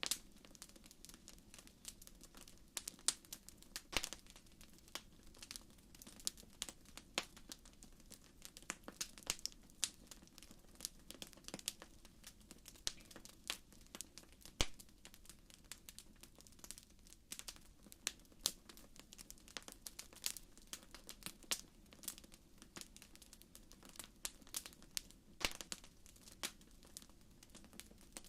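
Wood fire burning in a fireplace, crackling with many small irregular pops and snaps over a faint steady hiss.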